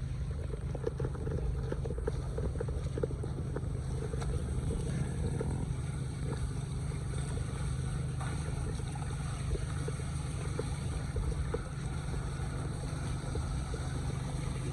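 Floodwater running and gurgling into a cleared storm drain, with small irregular splashes and a low rumble of wind on the microphone.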